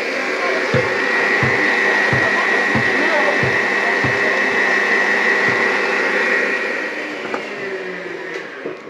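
Motor-driven machine running steadily with a high whine and regular low thumps about one and a half times a second. Near the end it slows and fades as it is switched off.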